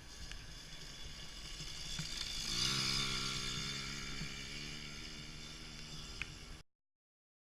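Yamaha PW50's small two-stroke single-cylinder engine buzzing as the minibike rides past, loudest about two and a half seconds in and then easing off. The sound cuts off abruptly near the end.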